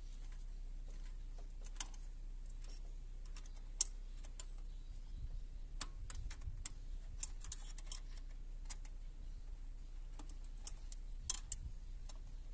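Scattered light metallic clicks and taps of a wrench and small parts being fitted and tightened on a car engine, with sharper clicks about four seconds in and near the end. A steady low hum runs underneath.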